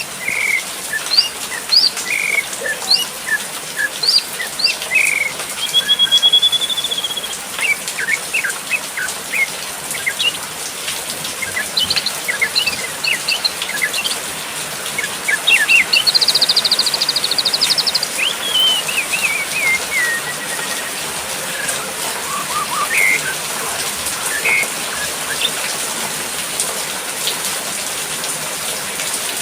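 Songbirds chirping and whistling in short calls, a held whistle and a fast trill, over a steady hiss of falling water from a rain bath.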